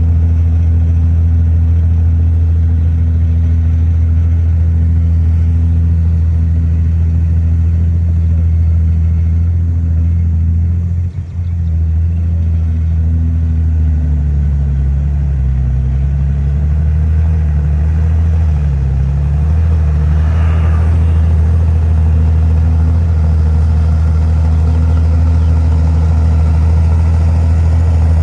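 Heavy earthmoving machine's diesel engine running steadily, with a brief drop about eleven seconds in and its pitch wavering up and down for several seconds after as the load changes.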